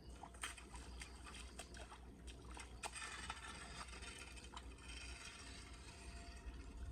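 Faint water splashing and trickling, with scattered sharp clicks over the first three seconds, then a steady rush of flowing water for a few seconds.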